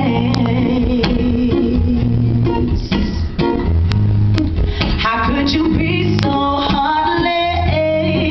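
A woman singing an R&B song live, backed by guitar and bass.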